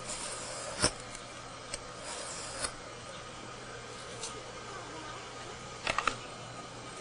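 Steel broadhead being stroked across a flat file: short scraping strokes with sharp metallic clicks and taps in between, and a quick run of three clicks near the end.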